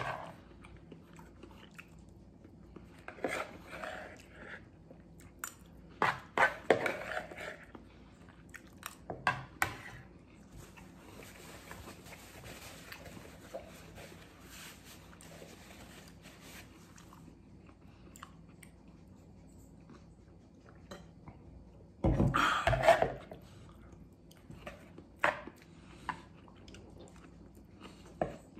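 A man eating: chewing mouthfuls, with a metal spoon scraping and clicking against a plastic bowl. A stretch of soft paper-towel rustling comes in the middle, and a brief louder noise about three-quarters of the way through.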